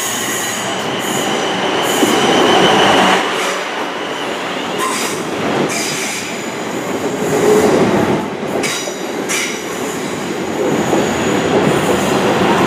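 Class 444 Desiro electric multiple unit pulling into the platform and slowing. A high-pitched wheel squeal comes on the curve in the first few seconds, with a few clicks of wheels over rail joints later.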